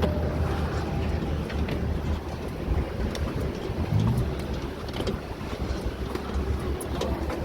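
A steady low rumble with a few light clicks and knocks scattered through it.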